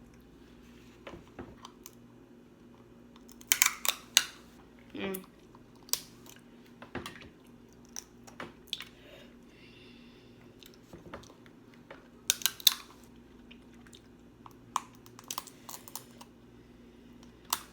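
Close-up eating sounds of snow crab: the hard shells cracking and snapping in sharp clicks, loudest in two clusters, about four seconds in and again near twelve seconds, with chewing and mouth sounds between.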